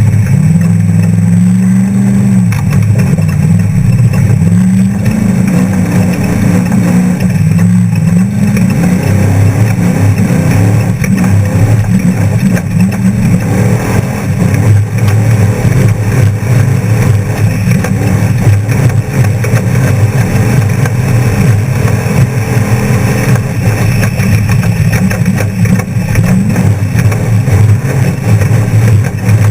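Off-road trophy truck's engine running hard, its pitch climbing and dropping again and again as it accelerates and eases off, with a constant rushing noise over it.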